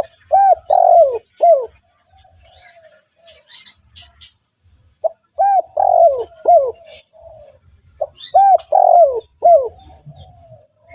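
Spotted dove cooing: three loud phrases of three or four rising-and-falling coos, spaced a few seconds apart, with softer coos between them. Faint high chirps of small birds come through in the gaps.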